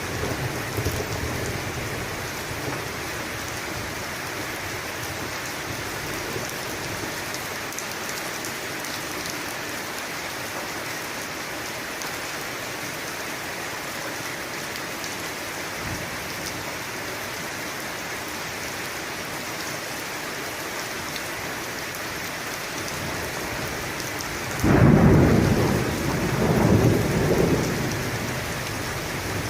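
Steady rain falling, with a sudden loud thunderclap near the end that rolls on in a rumble for about three seconds.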